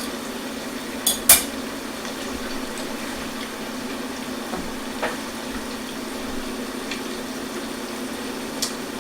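A metal utensil clinks twice against a pan about a second in, with a lighter tap later, over a steady low hum.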